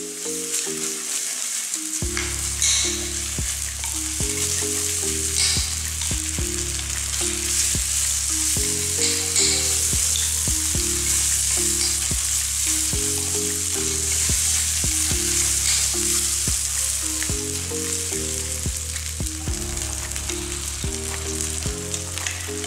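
Spaghetti sauce and chopped onion sizzling as they fry in a hot non-stick wok, stirred with a wooden spatula that now and then scrapes the pan. Background music with a low, stepping melody plays underneath.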